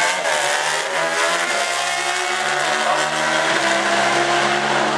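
Sport bike engines running at high revs, their pitch climbing over the first couple of seconds and then holding steady.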